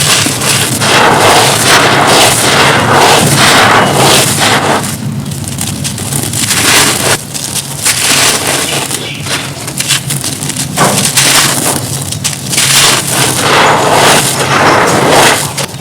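Dry, dusty crumbly material being crushed and crumbled: a dense crackling crunch in several long stretches of a few seconds each, with short pauses between them.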